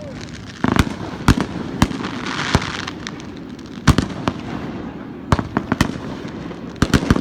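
Fireworks going off: a series of sharp bangs at irregular intervals, with a crackling hiss about two seconds in and a quick cluster of bangs near the end.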